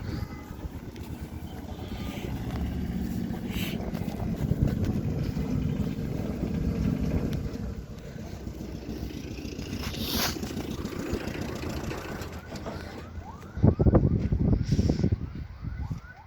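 Mahindra 575 DI tractor's diesel engine running, a continuous low rumble, with louder rough bursts near the end.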